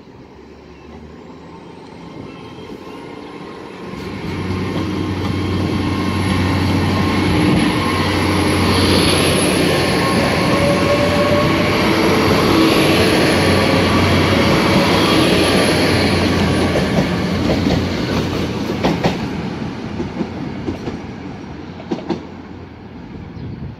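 GWR Class 800 bi-mode train running on its diesel engines as it approaches and passes close by, a steady low engine drone and a thin high whine growing louder to a peak, then fading as it draws away. A few sharp wheel clicks on the track come near the end.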